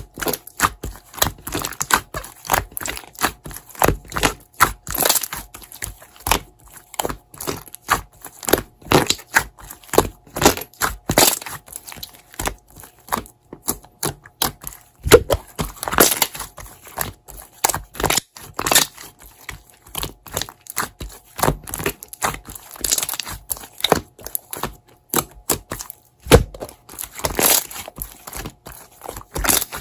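Slime being kneaded and pressed by hand: irregular crackling, crunching and popping clicks, several a second, with a few louder snaps.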